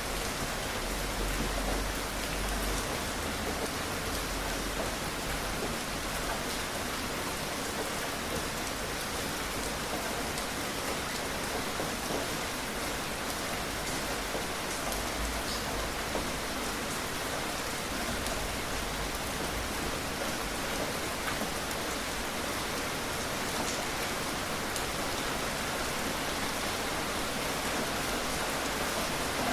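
Steady rain falling, an even hiss with scattered small drop ticks and a faint low rumble in the first few seconds.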